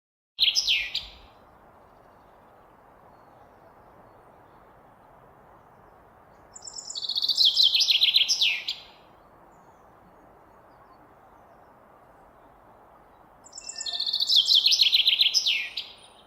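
A songbird singing: a short fragment of song near the start, then two full songs about seven seconds apart. Each song is a run of rapid notes falling in pitch, about two seconds long, over a faint steady hiss.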